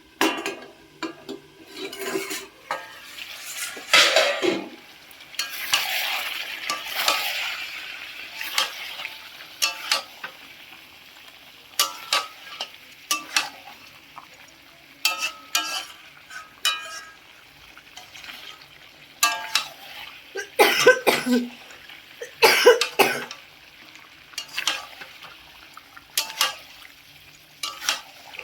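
A spatula stirring and scraping in a pan of frying chicken curry: repeated sharp scrapes and clinks against the pan over a sizzle that swells for a few seconds near the start.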